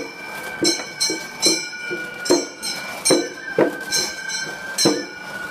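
Gion bayashi festival music: small brass hand gongs (kane) struck in a quick repeating metallic rhythm, with a flute holding long, steady high notes over them.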